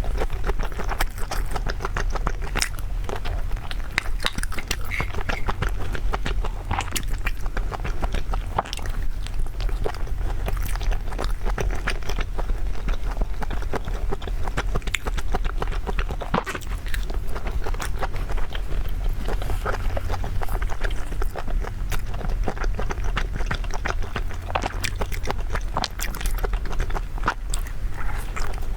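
Close-miked chewing and wet mouth sounds of someone eating, with many small crackly clicks, over a steady low hum.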